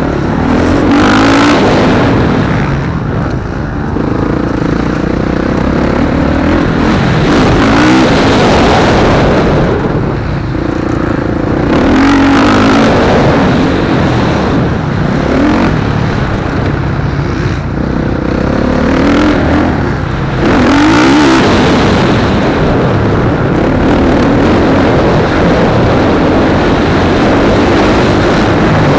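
Several motocross bikes racing, their engines revving up and dropping back over and over as they pass.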